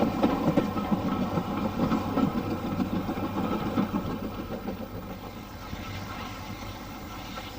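A train's engine running, with a rapid low pulsing and steady tones above it, growing fainter from about halfway through.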